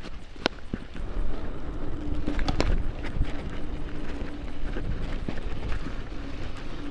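Bicycle being ridden over a rough path: irregular rattles and knocks from the bike over a low rumble of wind and ground noise, with a faint steady hum coming in about halfway through.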